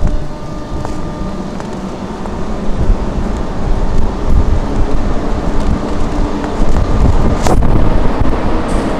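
NS class 1700 electric locomotive running with the train, a steady low rumble with a few faint steady tones, and wind buffeting the microphone. A single sharp knock about seven and a half seconds in.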